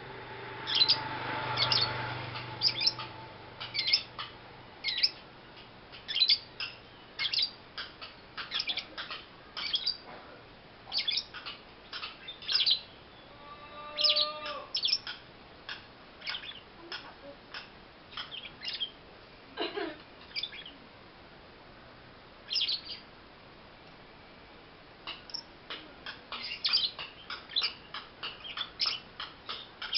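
A young lovebird chirping in quick series of short, sharp, high calls, with a lull of a few seconds about two-thirds of the way through before the chirping picks up again.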